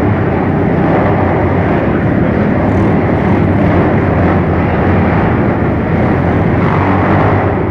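Dirt bike engines running together in a steady, loud din.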